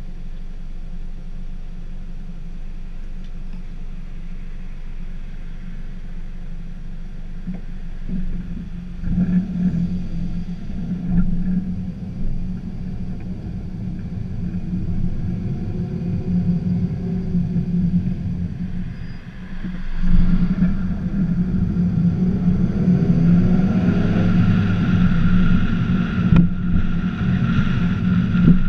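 Scion tC's four-cylinder engine, heard from outside on the hood, idling steadily. About eight seconds in it pulls away, and it accelerates harder again about twenty seconds in.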